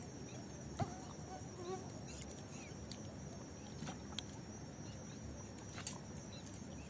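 Faint evening outdoor ambience: a steady high-pitched insect trill throughout, with a few faint short chirps and two or three soft clicks.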